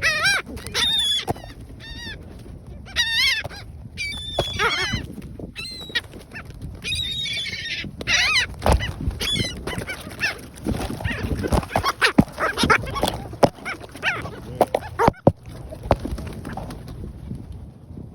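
Gulls calling close up with repeated harsh, wavering cries, then from about eight seconds in a run of sharp knocks and taps right at the microphone among more calls, as the gulls peck at potato chips beside the phone.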